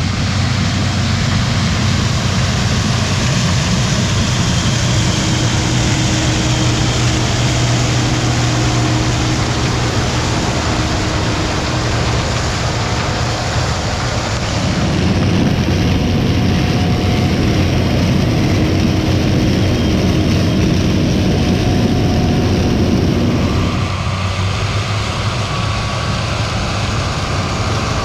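Heavy farm machinery running at harvest: a steady engine hum with mechanical noise, changing abruptly about halfway through and again near the end.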